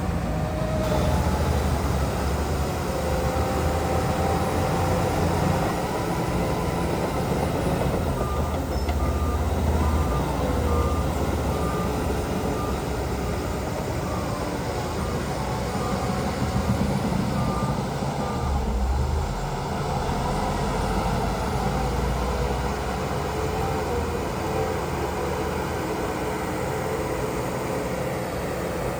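Heavy diesel earthmoving machinery running steadily, with a deep rumble throughout. A reversing alarm beeps at an even pace for about ten seconds in the middle, as one of the machines backs up.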